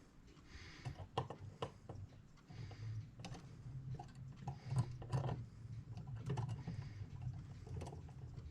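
Irregular light clicks and taps of small metal clock-movement parts and tools being handled as the movement's wheels and levers are fitted back together.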